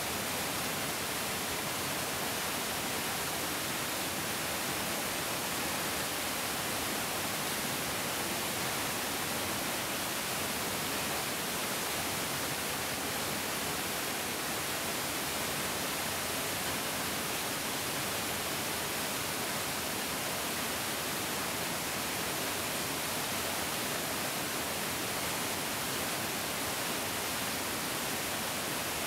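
Mountain stream flowing: a steady, even rush of water with no changes.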